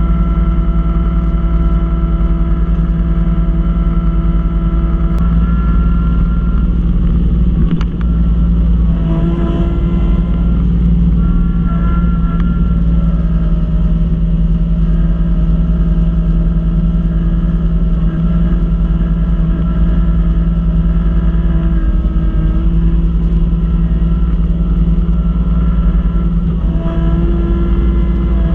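Kubota B2650 compact tractor's three-cylinder diesel engine running steadily under load while driving a front-mount snowblower, its pitch shifting slightly a few times.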